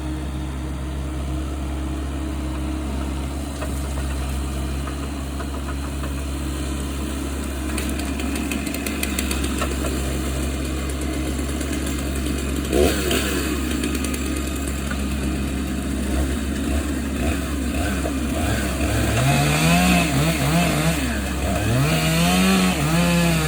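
A heavy engine runs steadily at a low hum. From about 19 seconds in, a chainsaw joins it, revving up and down several times.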